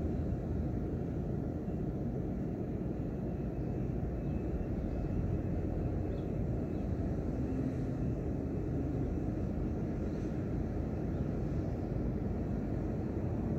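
Steady, even low rumble of a white-noise ambience recording, with no distinct events.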